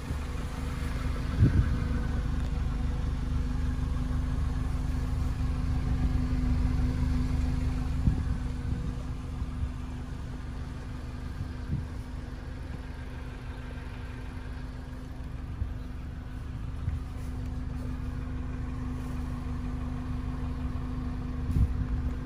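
The 2012 Dodge Caliber's four-cylinder engine idling steadily, with a few light knocks.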